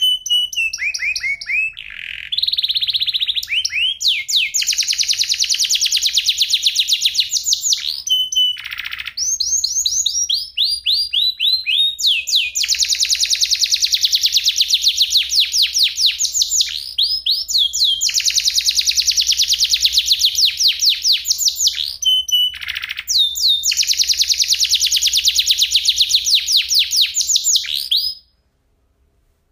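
Domestic canary singing: long rolling trills of rapid repeated notes, some series sliding down in pitch, broken by short pauses. The song stops abruptly about 28 seconds in.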